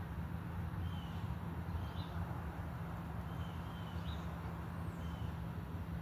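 A bird calling outdoors in short high chirps, some falling and some with a quick upward hook, about one a second, over a steady low rumble.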